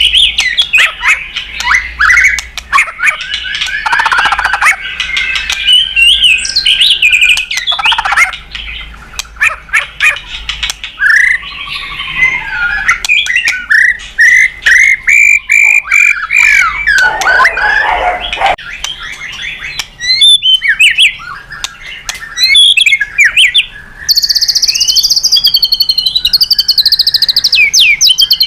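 White-rumped shama (murai batu) singing a loud, fast, varied song of sliding whistles, chirps, harsh squawky notes and clicking rattles. A high, continuous trill takes over in the last few seconds.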